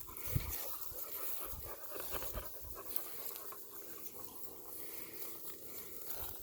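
Cane Corsos panting, with scattered rustles and soft knocks of walking through brush.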